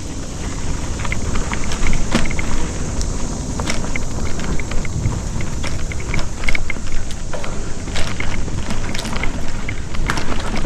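Mountain bike moving over a dirt trail: a steady rumble with wind on the microphone and frequent short clicks and rattles.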